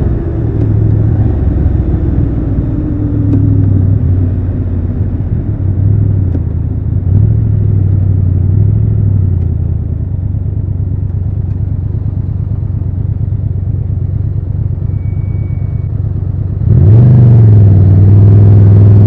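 Triumph Tiger 1200 Rally Pro's three-cylinder engine slowing down and then idling low and steady for several seconds. Near the end the throttle opens sharply and the engine gets suddenly louder, its pitch rising as the bike pulls away.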